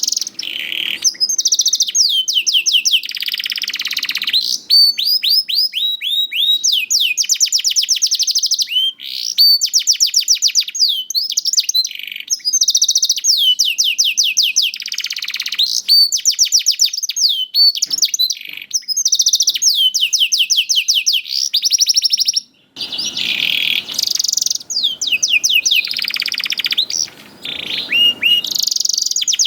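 Domestic canary singing a long, unbroken song of fast trills: rapid runs of high repeated notes, with rougher, harsher passages near the end.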